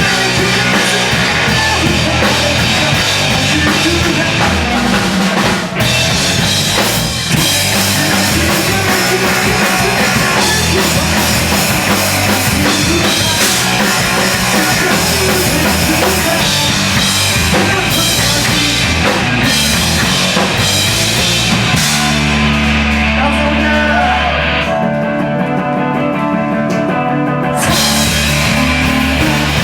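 Loud hardcore band, distorted guitars, bass and drum kit. About 25 s in the drums drop out, leaving held guitar and bass notes, and the full band comes back in a couple of seconds later.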